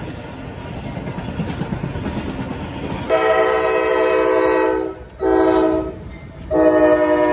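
Amtrak locomotive's multi-chime air horn sounding over the rumble of the approaching train: a long blast about three seconds in, a short one, then another long blast starting near the end.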